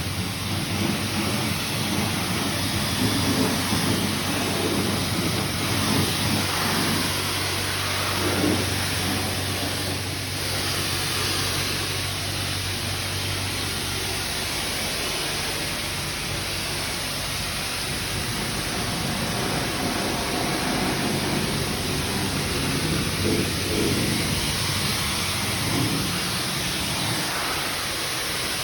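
High-pressure car-wash wand spraying soapy foam onto a van's body: a steady hiss of water spray, with a low hum underneath that fades out about halfway through.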